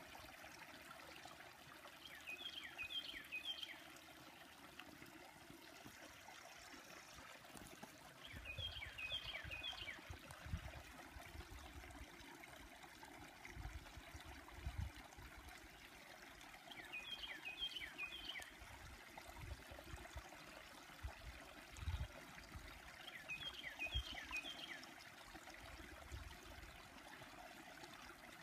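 A songbird singing a short phrase of quick, falling notes four times, roughly every seven seconds, over the steady trickle of a creek. Intermittent low rumbling bumps come and go from about a third of the way in.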